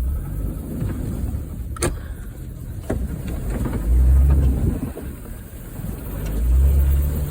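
Honda Fit's engine running as the car drives over a rough dirt road, swelling louder about four seconds in and again near the end. There are a couple of sharp knocks about two and three seconds in.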